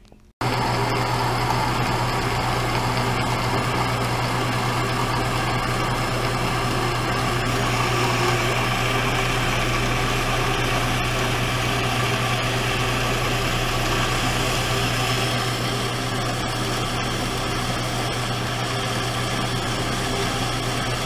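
Shop machine running steadily under power with a strong low hum, starting and stopping abruptly; a higher hiss joins from about 7 to 15 seconds in.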